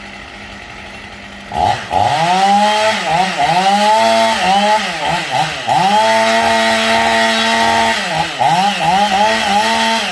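Small engine revved up and down over and over, its pitch sweeping up, holding briefly and dropping again; before that, a low steady hum for about the first second and a half.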